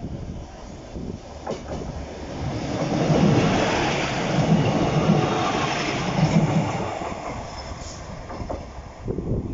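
Two coupled Class 153 diesel railcars passing close by over a level crossing. The engines and the wheels on the rails grow louder, peak about three to six seconds in, then fade as the train moves away.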